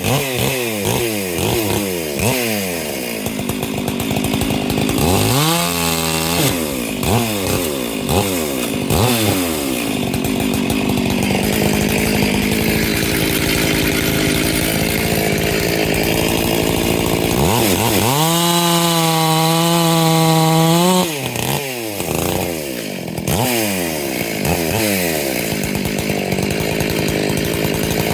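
Large 70–80 cc two-stroke chainsaw cutting firewood: the engine is revved up and down over and over, runs for several seconds under load in the cut, and about two-thirds of the way in is held at a high steady full-throttle pitch before dropping back.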